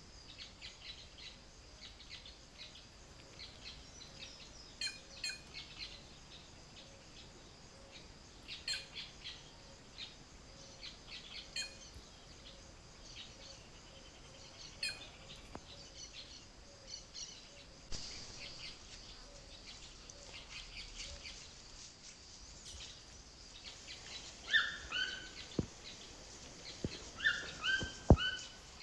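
Wild birds calling: short sharp calls every few seconds, then a run of quick, falling two-part calls near the end, over a steady high-pitched background hum. A few sharp knocks sound near the end.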